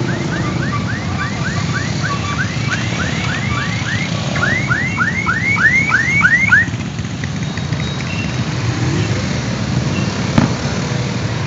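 An electronic siren sounding rapid rising whoops, about four a second, growing louder and then cutting off suddenly about two-thirds of the way through, over the steady rumble of vehicle engines passing on the road. One sharp click near the end.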